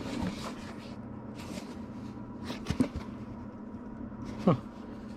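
Cardboard flat-rate shipping box being handled and turned over: a few short rustles and scrapes and a couple of sharp knocks against a steady room hum, with a short spoken "huh" near the end.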